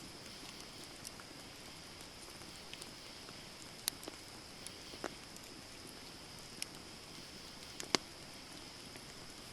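Campfire of burning wood, a steady hiss with scattered sharp crackles and pops, the loudest pop a little before the end.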